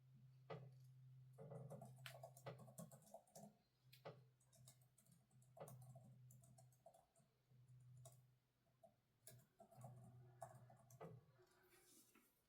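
Faint, irregular clicks and taps of work at a desk, over a low hum that comes and goes.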